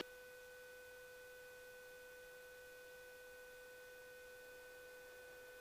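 Near silence with a faint, steady electrical whine made of a few pure tones.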